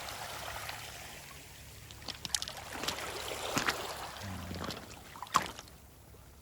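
Seawater washing over a pebble beach, fading away over the first couple of seconds, then a handful of sharp clicks of stones knocking together, the loudest about five seconds in.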